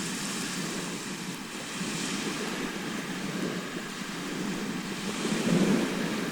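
Sea waves washing onto a shore: a steady surf that swells and ebbs, with one wave loudest near the end.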